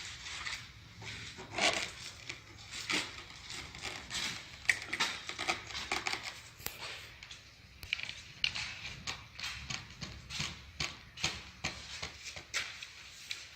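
An irregular series of short taps, clicks and scrapes, several a second, with louder knocks about two and five seconds in.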